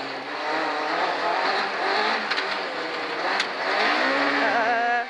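Rally car engine running hard on a gravel stage, heard from inside the cabin, its pitch rising and falling with the revs. A few brief sharp ticks sound around the middle.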